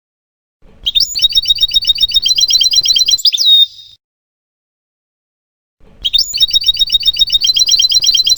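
European goldfinch singing: a rapid trill of evenly repeated high notes, about ten a second, ending in a downward slurred note. The phrase comes twice, the second starting about six seconds in.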